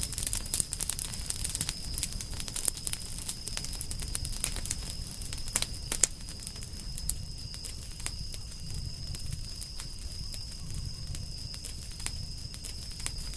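Campfire of burning firewood crackling, with irregular sharp pops and snaps over a low rumble of flame. The pops come thicker in the first half and thin out toward the end.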